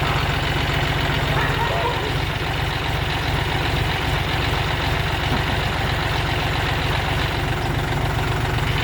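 John Deere tractor's diesel engine running steadily at low throttle, near idle, with an even, unchanging beat.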